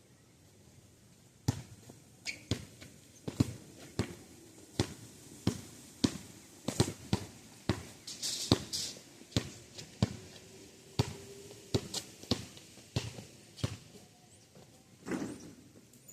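Basketball being dribbled on street pavement, sharp bounces about one and a half a second that start about a second and a half in and stop a couple of seconds before the end. One longer, duller thump follows near the end.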